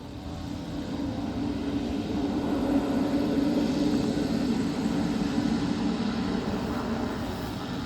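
Pilatus PC-12 single-engine turboprop running past. It grows louder over the first few seconds, with a steady droning tone, then slowly fades.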